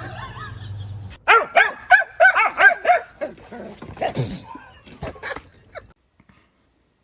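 A dog yipping: a fast run of about eight short, high-pitched yips in under two seconds, followed by a few weaker ones.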